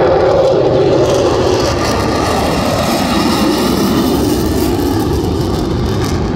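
Blue Angels F/A-18 Super Hornet jet flying past low and loud, a heavy engine roar whose pitch slowly falls as it goes by.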